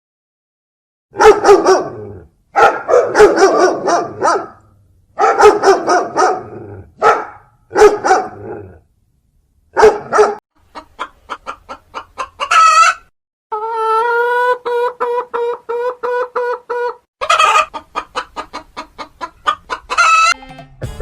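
Chickens clucking and squawking in short edited takes with abrupt silent gaps between them. In the second half there is rapid repeated clucking, and a long run of evenly spaced calls at a steady pitch.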